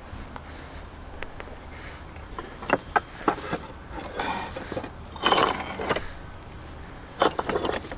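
Scrap granite pieces clinking and scraping against one another as they are handled: a few sharp knocks about three seconds in, then longer grinding scrapes about five seconds in and again near the end.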